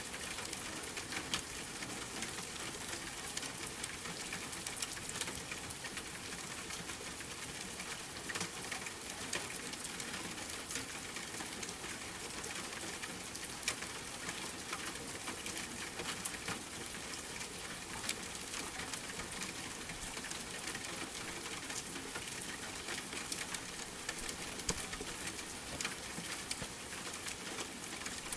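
Steady rain hiss with a wood fire crackling: frequent small sharp pops and ticks scattered over the hiss, a few of them louder.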